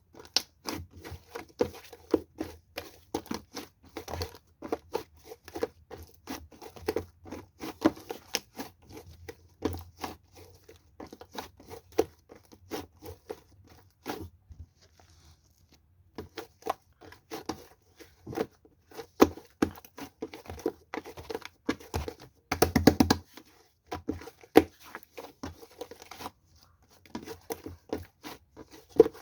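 Rapid, irregular crinkling and crackling clicks. They pause briefly about halfway through, and there is a denser, louder flurry about two-thirds of the way in.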